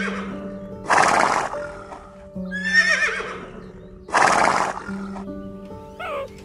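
Horse neighing: a high, wavering whinny followed by a harsh, breathy rush, heard twice, over background music with steady held notes.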